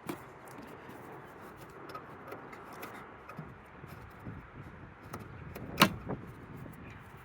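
Light clicks and rattles of a 3D-printed plastic cargo-net clip being handled and fitted in a car, with one sharp click about six seconds in.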